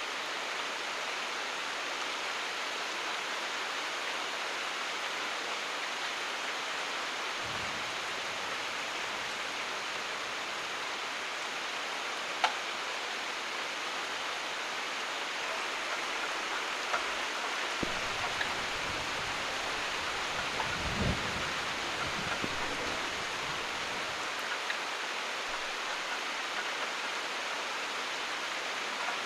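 Steady heavy rain falling, a constant hiss. Low rumbles of distant thunder come briefly about seven seconds in and for longer about eighteen to twenty-three seconds in. A single sharp tick sounds about twelve seconds in.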